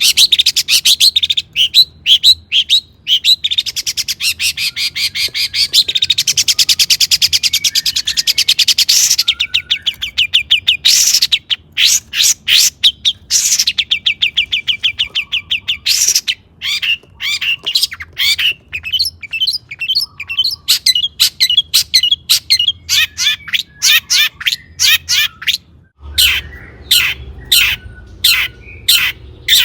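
Long-tailed shrike singing a loud, varied song of fast chattering trills and rapid buzzy runs. Near the end it changes to sharp, evenly spaced notes about two a second.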